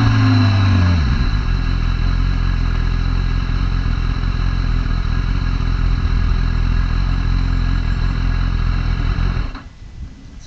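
Motorcycle engine dropping in revs during about the first second, then idling steadily with a low rumble. The sound cuts off suddenly shortly before the end.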